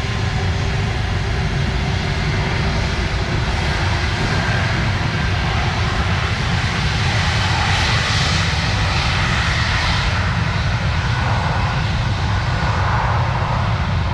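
Airliner engines, a steady loud rumble with a hiss on top that swells slightly in the middle.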